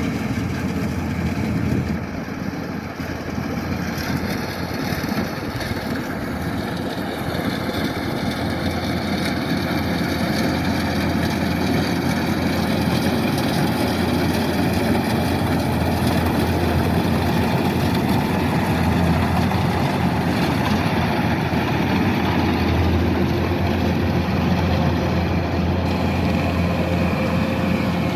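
Kubota DC-108X rice combine harvester running steadily: a continuous diesel engine drone with a strong low hum, together with the whirr of its working machinery. It grows a little louder about a third of the way through.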